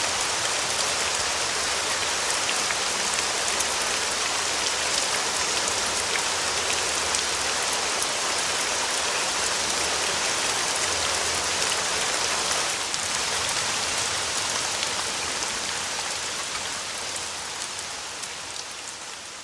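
Steady rain, an even hiss with fine drop ticks, fading out gradually over the last several seconds.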